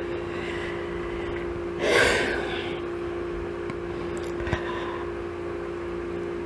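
A person's single audible breath, like a sigh, about two seconds in, over a steady low hum.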